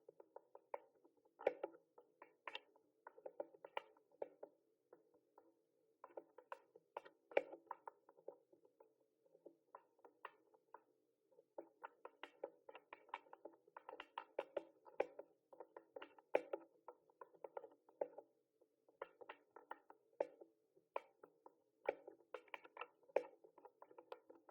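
Mechanical keyboard being typed on: irregular runs of key clicks, several a second, broken by short pauses between runs.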